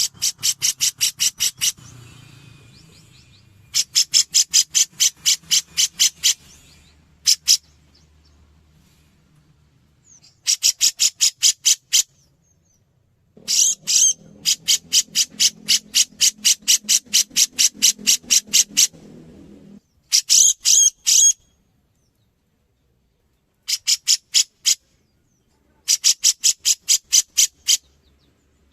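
Grey-cheeked bulbul (cucak jenggot) singing in its energetic 'gacor' style: bouts of rapid, evenly repeated high notes, several a second, each bout lasting a couple of seconds with short pauses between. A low hum sits under the longest bout in the middle.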